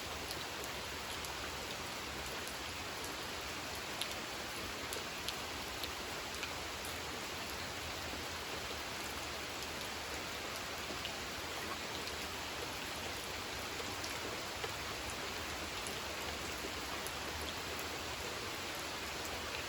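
Steady rain falling on a pond, a constant hiss of rain with scattered individual drop ticks.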